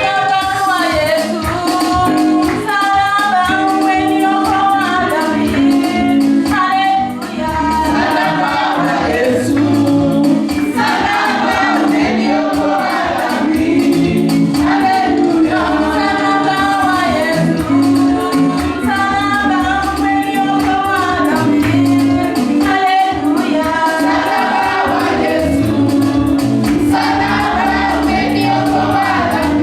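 Congregational gospel worship singing: voices singing together over a steady beat, with tambourine.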